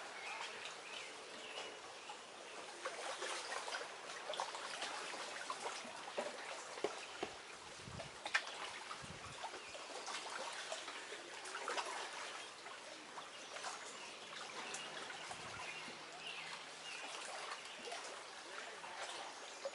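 Lake water lapping and trickling at the shore, with many small irregular splashes.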